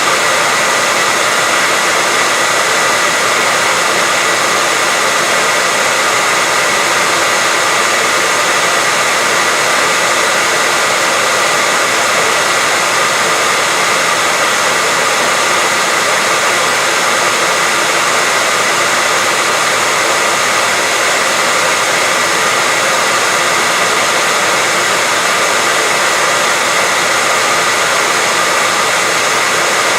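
Steady, unchanging white-noise hiss, brighter toward the top, with a faint high tone running through it.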